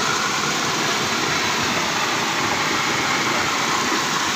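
Water of a small waterfall falling, a steady, even rush with no break or change.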